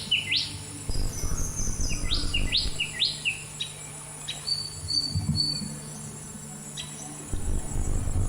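Songbirds singing in short phrases of quick high notes that slide sharply downward, with a brief steady whistled note about halfway through.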